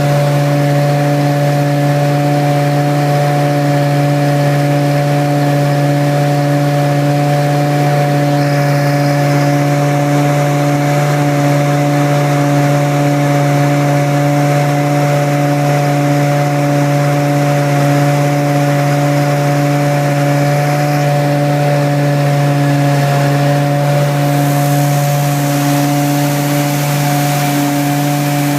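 BlueLine Thermal Wave 5M truck-mount carpet cleaner running steadily at double-wand speed: its engine and vacuum blower give a loud, even hum with a steady whine over it.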